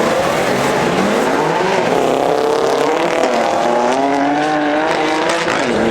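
Car engine revving hard, its pitch climbing about a second in, dipping, then rising again in stages before a sharp drop near the end and a steady hold.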